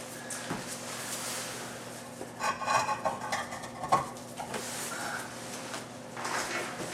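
Metal parts of a rear subframe crossmember clattering and scraping as it is shifted into position on a floor jack. There is a short pitched grating about two and a half seconds in and a sharp knock around four seconds.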